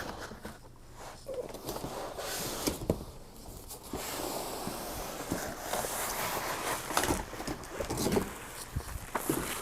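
Handling of vacuum-cleaner packaging: rustling plastic and cardboard with scattered knocks and taps as parts are pulled from the box.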